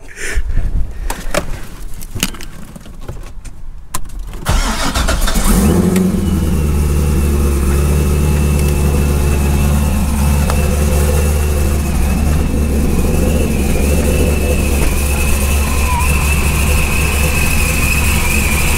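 Supercharged LS3 V8 of a C6 Corvette starting about five seconds in after a few clicks and knocks, flaring briefly, then idling steadily with a high whine over the engine note.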